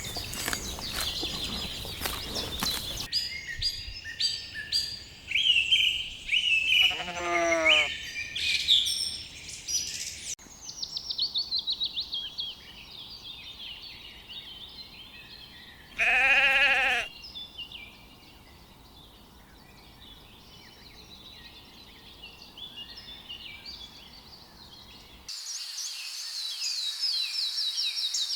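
Songbirds chirping, with one loud, wavering sheep bleat lasting about a second near the middle. A shorter call sliding down in pitch comes about a quarter of the way in, and the background changes abruptly a few times.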